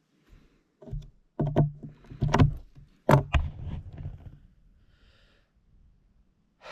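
A folding multitool's screwdriver being worked against a screw: a string of sharp clicks and knocks with dull thuds as the tool slips and is re-gripped and turned, the loudest about three seconds in, then it goes quiet.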